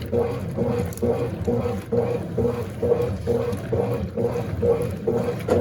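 Small top-loading washing machine agitating a load in water: the motor hums in short strokes about two to three times a second as the agitator swings back and forth, with water sloshing.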